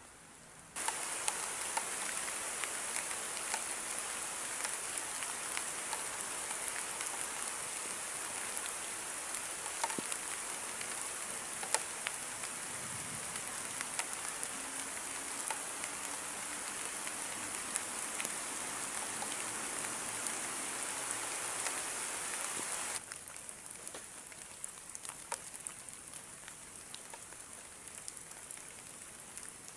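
Heavy rain falling steadily, an even hiss dotted with the ticks of single drops. It starts abruptly about a second in and turns suddenly much quieter about three quarters of the way through.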